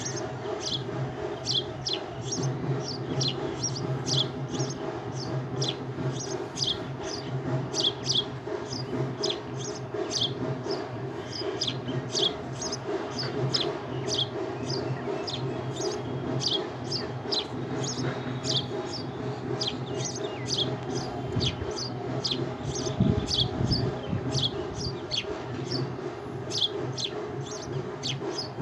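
A bird chirping over and over: short, high, downward-sliding chirps about twice a second, over a steady low hum.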